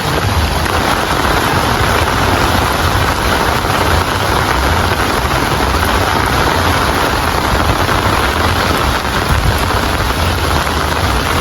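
Steady heavy rain, a dense even hiss, with a low rumble underneath.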